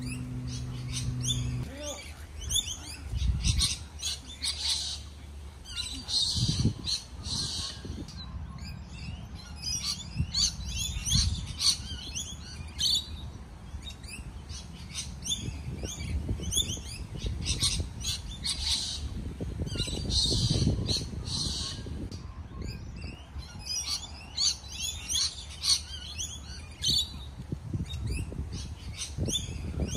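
Birds chirping and calling in many short, high notes, with a low rumble underneath.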